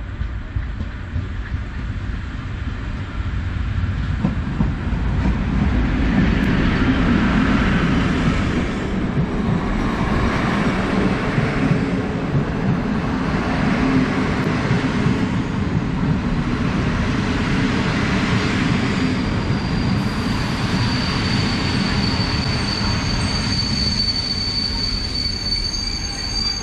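A train running through the station, a heavy steady rumble of wheels on rail that swells a few seconds in. About eighteen seconds in a high, steady wheel squeal joins and grows louder toward the end.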